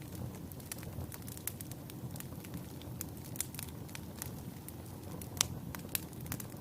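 Wood fire burning in a fireplace: a steady low rumble of flame with scattered sharp crackles and pops, the loudest pop about five and a half seconds in.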